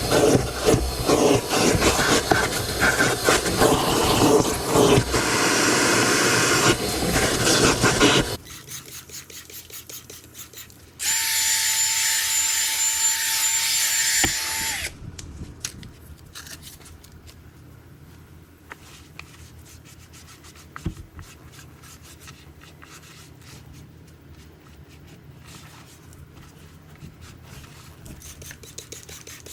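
Car-detailing tool sounds. A loud rushing hiss runs for the first eight seconds. A few seconds later a small motor whirs with a steady whine for about four seconds, then brushing and rubbing continues with occasional light clicks.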